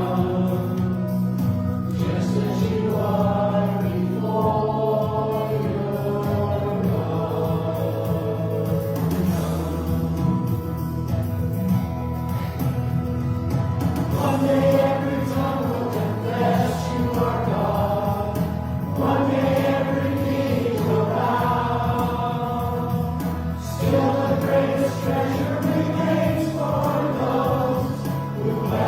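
Church choir singing, with held low notes from an accompanying instrument sustained underneath.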